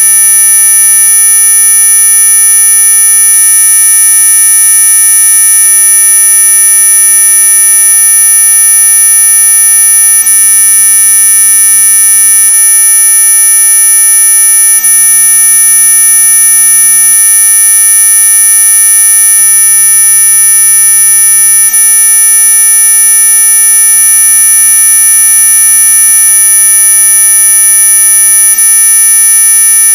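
Synthetic mosquito-repellent tone: several steady electronic pitches sounding together, loud and unchanging, the strongest very high-pitched, like a shrill buzz. It is marketed as ultrasonic, but it lies within hearing.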